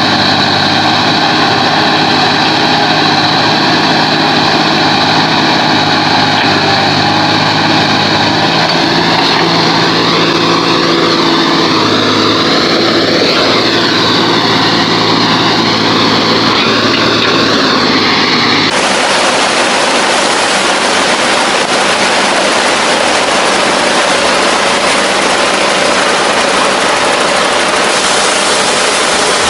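Truck engine running steadily, its pitch rising and falling briefly as it is revved near the middle. About two thirds of the way through the sound cuts abruptly to a steady, noisy rumble.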